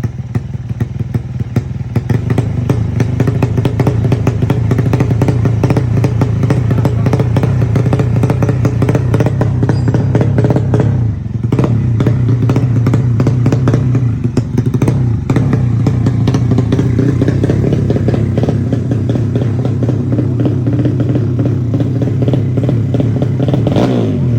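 A 150 cc bored-up Honda Supra four-stroke single in a Yamaha Jupiter drag bike, running steadily at held revs. The revs dip briefly twice around the middle. This is the odd sound at the top end that the owner draws attention to.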